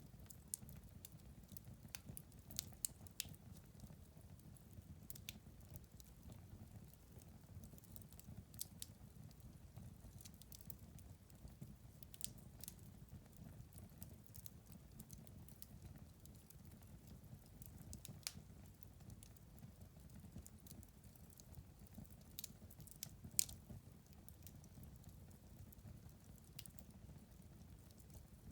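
Wood fire crackling in a fireplace, faint: irregular sharp pops and snaps over a low rumble of the flames, with one louder pop late on.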